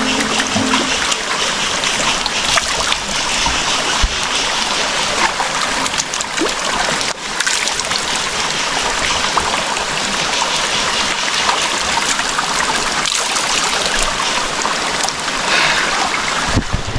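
Forest stream water rushing and splashing close by, a steady loud flow with a few brief splashes mixed in.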